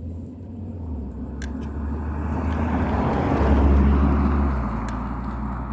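A car driving past, its engine and tyre noise growing louder to a peak about three and a half seconds in, then fading.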